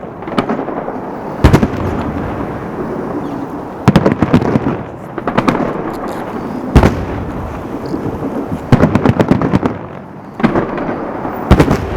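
Aerial fireworks salute going off: clusters of sharp bangs every second or two, with a rolling rumble between them.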